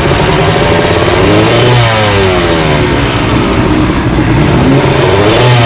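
Two-stroke motocross bike engine revving hard, its pitch climbing and then dropping off twice, first about a second and a half in and again near the end.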